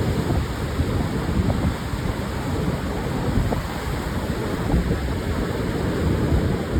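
Pacific surf breaking and washing on a sandy beach, with wind buffeting the microphone: a steady low rush with a rumble that flickers up and down.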